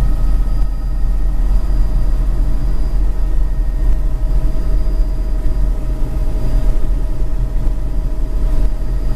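Helicopter in flight: a loud, steady drone of engine and rotor, with a constant whine running through it.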